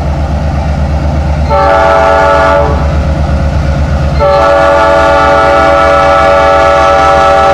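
Diesel locomotive horn sounding a short blast, then a long held blast about a second later, over the deep, even throb of the locomotive's diesel engine.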